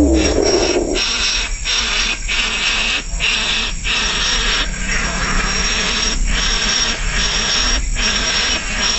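Baby birds begging with harsh, raspy hissing calls. The calls come in continuous runs, broken by short pauses about once or twice a second.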